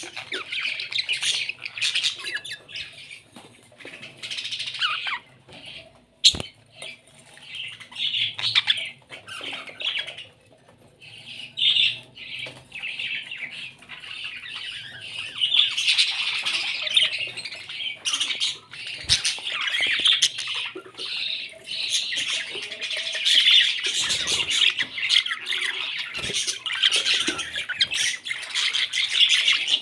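Pet parrots squawking and chattering, in short bouts at first and almost without pause from about halfway through.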